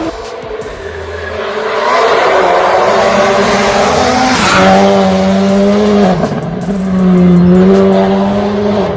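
Racing car engine revving, its pitch holding, stepping up, dropping sharply and climbing again as if through gear changes.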